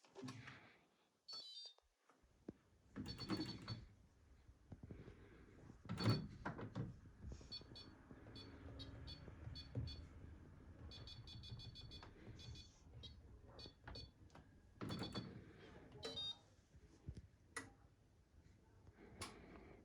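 Beko hybrid tumble dryer giving several short series of electronic beeps, with clicks and knocks, over a low steady hum of the machine running from about two seconds in.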